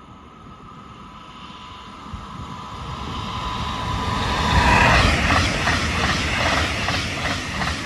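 Two coupled DSB ER (IR4) electric multiple units passing through at about 174 km/h. A rush of noise builds over several seconds and peaks about five seconds in, then a quick, regular clatter of wheels as the bogies go by, easing off at the very end.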